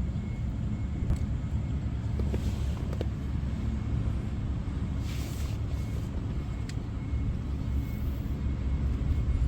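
Steady low outdoor rumble, with a few faint clicks and a brief hiss about five seconds in.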